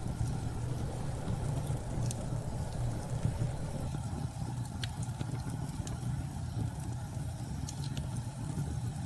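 Steady low rumble of storm wind, with a few scattered sharp crackles from a wood fire.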